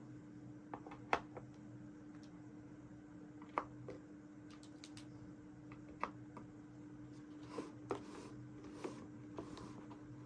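Small plastic toy pieces being handled, set down and clicked together, giving scattered sharp clicks and taps, about eight over ten seconds, over a faint steady hum.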